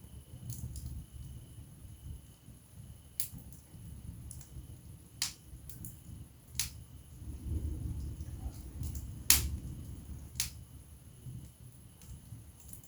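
Wood fire burning in a fireplace: a low, uneven rustle of flames with sharp crackles and pops every second or two. The loudest pop comes about nine seconds in.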